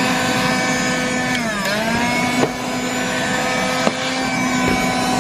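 Black & Decker Dustbuster 3.6 V cordless handheld vacuum running with a steady motor whine. Its pitch dips briefly about one and a half seconds in, then recovers, and a couple of sharp clicks are heard.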